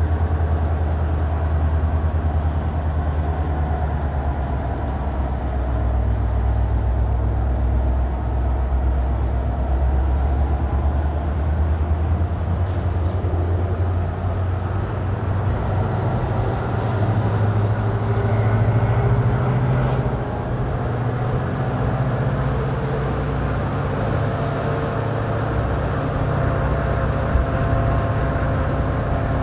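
Passenger train running steadily along the track, heard from beside the coach: a continuous rumble of wheels on rails with heavy low wind noise. A faint high whine slowly rises in pitch.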